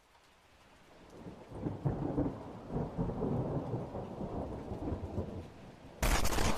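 Thunder rumbling with rain, swelling in about a second in and rolling unevenly. Near the end a sudden, much louder burst of noise breaks in.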